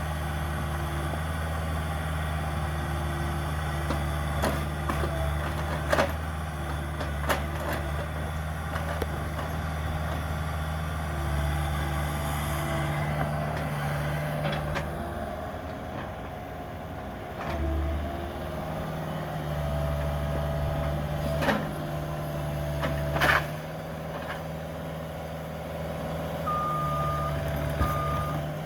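Cat 305 mini excavator's diesel engine running under load while its hydraulics work, with several sharp knocks and cracks of demolition. Near the end its travel alarm beeps in short repeated tones.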